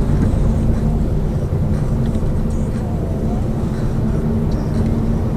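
Lada Vesta Cross with its 1.8-litre engine driving, heard from inside the cabin: a steady low drone of engine and road noise with a constant hum.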